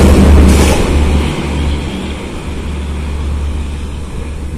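Duronto Express train, its rear power car rushing past at speed. The loud rumble and wheel noise ease off after about a second and a half as the train pulls away, leaving a steady low rumble.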